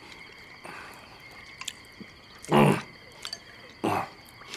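People eating: two short, loud mouth sounds of eating, about two and a half and four seconds in.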